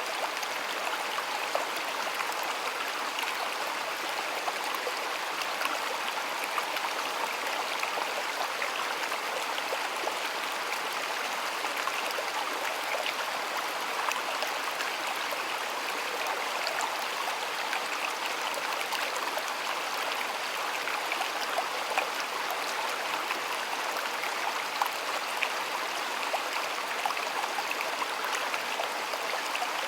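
Shallow stream flowing steadily, a constant rush of water with fine splashes and trickles throughout.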